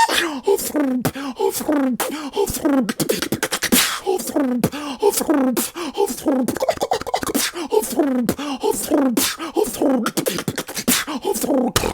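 Solo human beatboxing: a fast, dense run of sharp percussive mouth hits and snares layered with short pitched vocal sounds that bend up and down in pitch.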